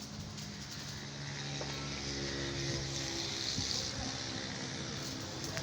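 A motor engine running with a steady hum that grows a little louder through the middle, over a background hiss.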